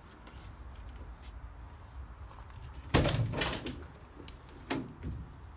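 A heavy van door of a Dodge Sprinter being worked: a loud metal clunk about three seconds in, followed by a couple of smaller latch clicks.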